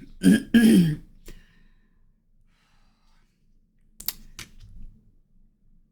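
A man sighs briefly, followed by a quiet stretch; a few light clicks come about four seconds in.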